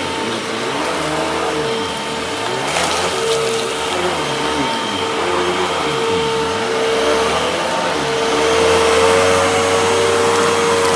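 Hoover vacuum cleaner running steadily with a constant motor whine, its lower tone rising and falling as the nozzle moves and the load changes, and a brief crackle about three seconds in. It is freshly refurbished, with its clogged hose cleared, and is running well.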